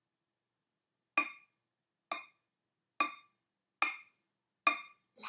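Wooden spoon tapping a metal cooking pot five times, slow and evenly about once a second, each strike ringing briefly with a clear metallic tone: the slow light-rain start of a kitchen rain rhythm.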